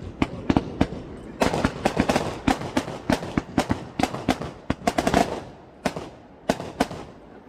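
Fireworks going off: a rapid run of sharp cracks and bangs, densest in the middle and thinning out to a few scattered cracks near the end.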